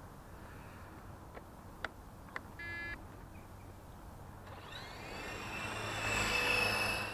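Small electric motor of a toy RC helicopter whining as it spins up, rising in pitch and growing louder from about halfway through before holding a steady high tone. Before it, a few sharp clicks and one short beep.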